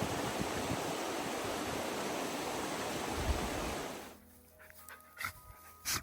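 The steady rush of a waterfall in spate cuts off about four seconds in. A few short, sharp noises from a dog follow in the quiet.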